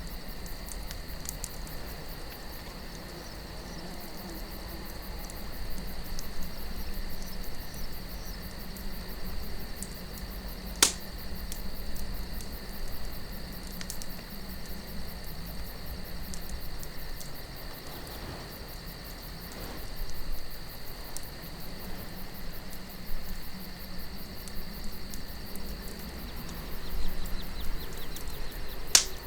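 Campfire burning with a light crackle of small ticks and two loud sharp pops from the wood, one about eleven seconds in and one near the end, over a low, steady wind rumble. A steady high chirring of crickets runs beneath it.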